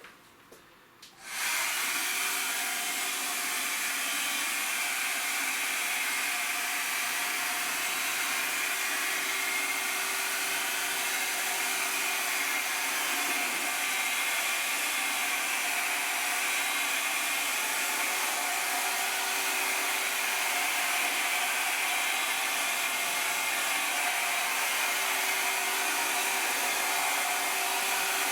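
Hand-held hot-air blower switched on about a second in and running steadily, a fan-and-motor rush with a faint hum, used to heat a vinyl sticker so it softens and settles onto a motorcycle wheel.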